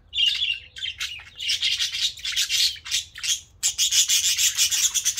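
Budgies chattering and warbling: a fast, scratchy stream of high chirps and rasps, densest and loudest in the last second and a half.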